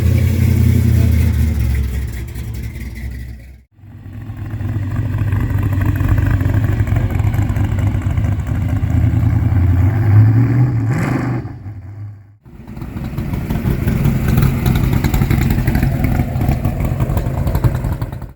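Vehicle engines running with a deep, steady rumble, one rev rising about ten seconds in. The sound drops out briefly twice, about four and about twelve seconds in.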